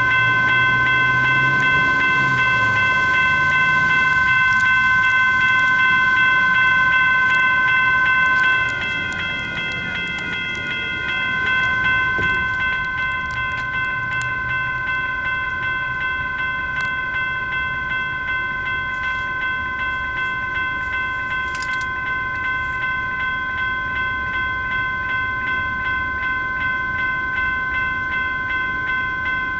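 Railroad crossing's US&S electronic bell (E-Bell) ringing continuously in a fast, even repeating ding, a little quieter from about nine seconds in. Underneath, for roughly the first twelve seconds, a passing light rail train's low pitched drive sound shifts in pitch.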